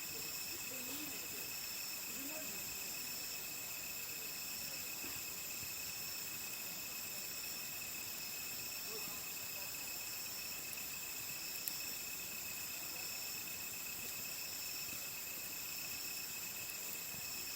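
Crickets and other insects chirring in a steady chorus at several high pitches, one of them pulsing in short repeated trills. A single faint click comes about twelve seconds in.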